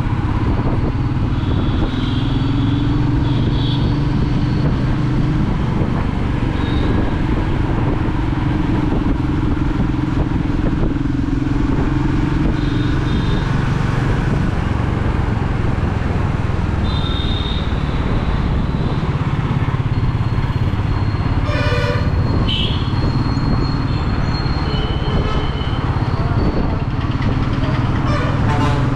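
Royal Enfield Meteor 350's single-cylinder engine and exhaust running steadily while the bike is ridden along the road. Short horn toots sound now and then over it.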